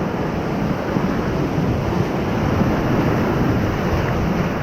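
Whitewater rapid rushing and churning loudly and steadily around an inflatable raft.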